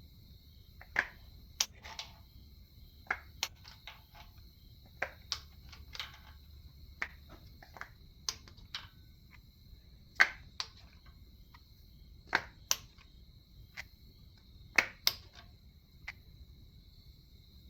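Irregular sharp clicks and clinks of tools and engine parts being handled, about one or two a second, some ringing briefly.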